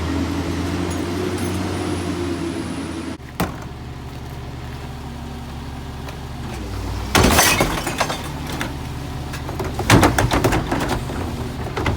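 Peterbilt McNeilus rear-loader garbage truck's diesel engine running steadily, changing abruptly to a quieter, lower hum about three seconds in. Two loud bursts of clattering and banging come around seven and ten seconds in.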